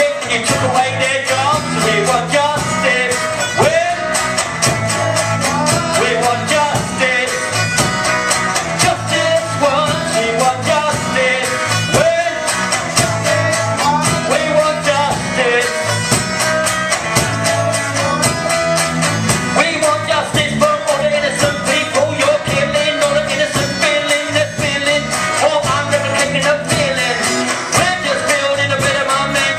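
Live band music with a steady beat and a wavering lead melody line.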